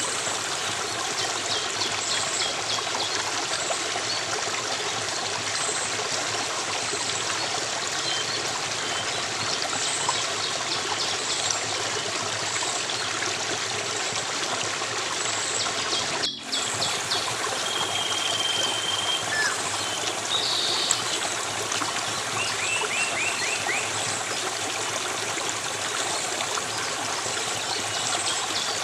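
Running water from a stream, a steady rushing trickle, with faint bird chirps, a short whistled note and a quick trill over it. The sound drops out for a split second just past the middle.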